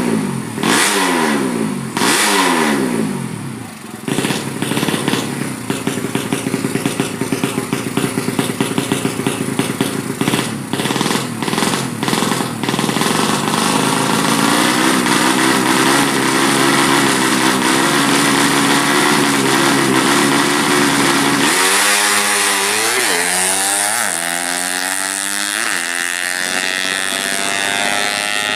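Drag-built, full-compression Yamaha Jupiter single-cylinder four-stroke motorcycle engine being revved. It starts with a few quick blips that fall away, then runs with a choppy, uneven beat and settles into steadier running. Near the end it is revved up and down several times.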